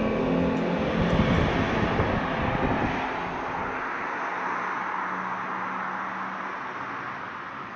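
A loud rumbling roar with a low steady hum under it, loudest in the first few seconds and then fading gradually.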